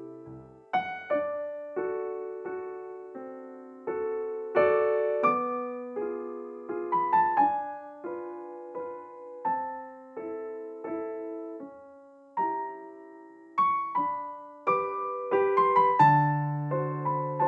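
Background piano music: a gentle melody of struck notes, each fading after it is played, over low sustained bass notes.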